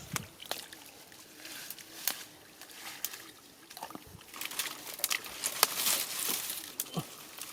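Shallow field water splashing and sloshing as fish are caught by hand, with irregular sharp splashes that come thickest about five to six and a half seconds in.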